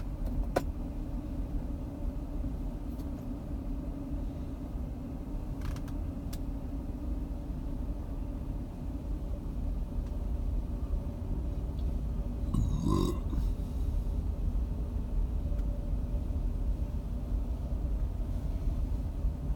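Steady low rumble of storm wind on the microphone, with one brief louder sound about thirteen seconds in.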